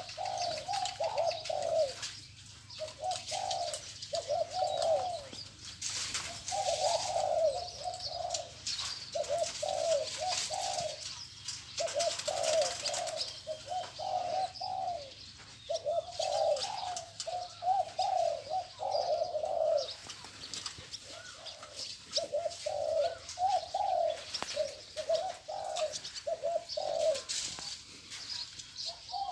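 Spotted dove cooing over and over, phrase after phrase with short breaks between them. Fainter chirps from other birds sound higher up.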